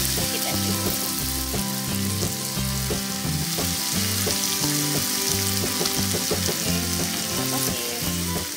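Chopped shallots, garlic, chillies and spices sizzling in hot oil in an aluminium wok as a steel spatula stirs them, with palm sugar melting in. Background music plays underneath.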